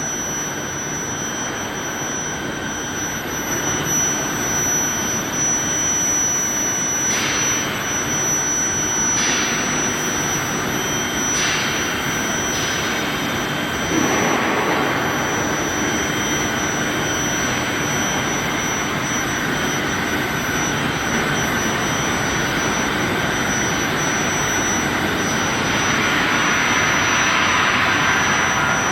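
Rebar induction quenching and tempering line running: a steady industrial hiss under a constant high-pitched tone, with a few brief swells of hiss in the first half and the noise growing a little louder near the end.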